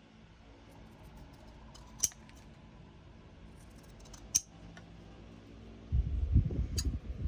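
Scissors snipping: two sharp snips a couple of seconds apart. From about six seconds in they are followed by louder low bumping and rustling as things are handled close to the microphone.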